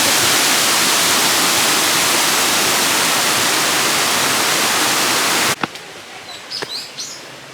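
Jeongbang Waterfall's falling water, a loud steady rush that cuts off suddenly about five and a half seconds in. After that come a quieter outdoor background, a few sharp clicks and some short high chirps.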